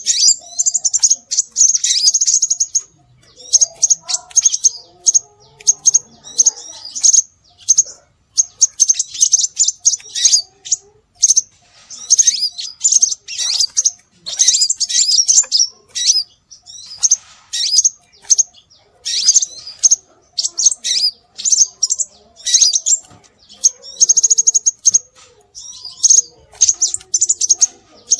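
Scarlet minivet (sepah raja) calling, played as a bird-lure recording: bursts of rapid, high-pitched chirps that repeat over and over with short pauses between them.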